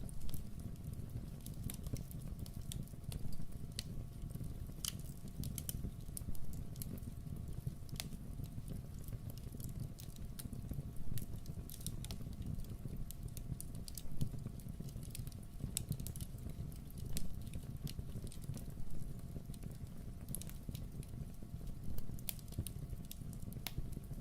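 Wood fire crackling in a fireplace: scattered sharp pops and snaps at irregular intervals over a steady low rumble of the flames.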